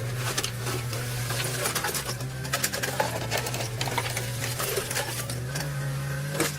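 Excavator's diesel engine running with a steady low drone, under a stream of irregular clacks and crunches of demolition debris being broken and moved.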